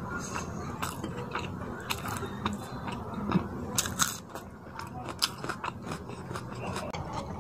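Close-miked sounds of eating fish curry and rice by hand: wet chewing and biting with many short, irregular clicks and crunches.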